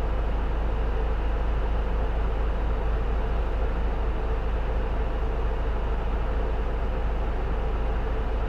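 Isuzu Erga (J-Bus PKG-LV234L2) city bus heard from inside the cabin, its six-cylinder diesel engine and drivetrain running at a steady pace with a deep rumble and a steady hum.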